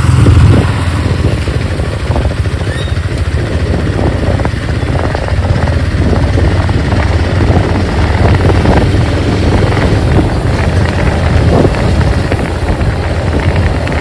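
Motorcycle under way: the engine runs steadily under a low, buffeting rumble of wind on the microphone, with a louder surge right at the start.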